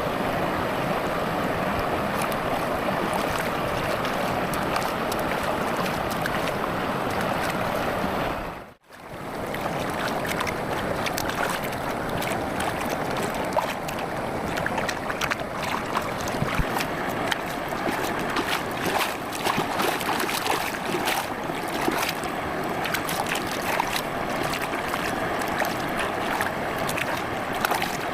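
Campfire crackling over a steady rushing noise. The sound drops out for a moment about nine seconds in, then comes back with many small, sharp crackles.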